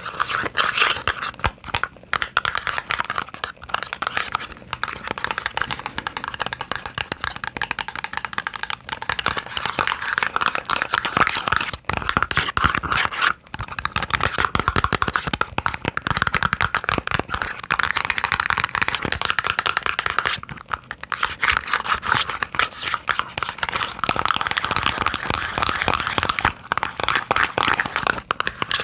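Rapid, dense tapping and scratching on small boxes, a steady crackly patter with a few brief pauses.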